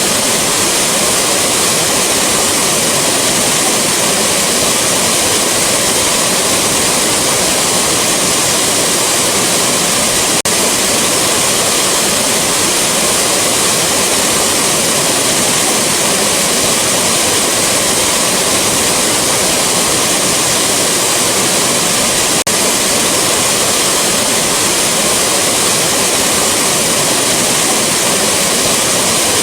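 Rushing waterfall: a steady, unbroken hiss of falling water, strongest in the high range.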